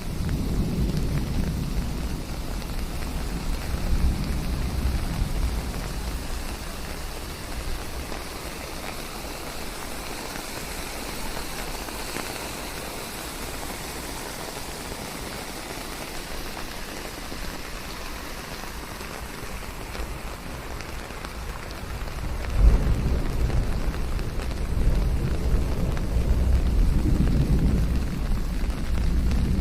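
Steady rain falling in a forest, a continuous hiss. Low rolling thunder rumbles in the first few seconds and again from about two-thirds of the way through, where it grows louder.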